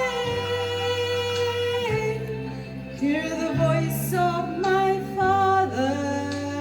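A woman singing long held notes that slide from pitch to pitch, over sustained low accompaniment chords that change every second or two.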